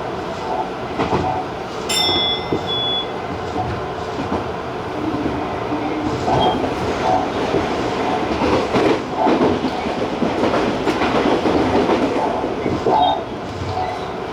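Tobu Railway TJ Liner electric train running at speed, a steady rumble of wheels on rail with repeated clacks and knocks, and a brief high-pitched tone about two seconds in.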